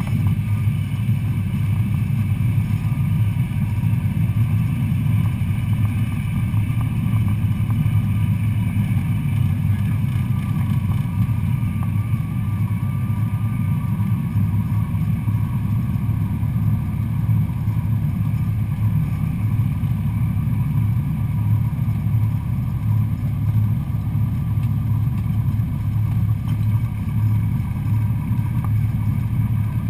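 Cessna 172SP Skyhawk's four-cylinder Lycoming engine and propeller running steadily, a constant low drone heard inside the cockpit.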